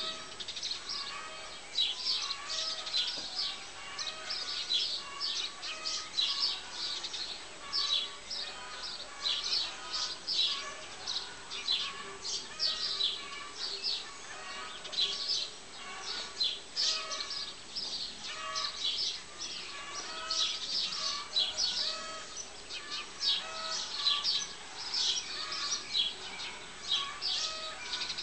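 Birds chirping and calling without pause: many short, high chirps several times a second, with lower repeated notes underneath.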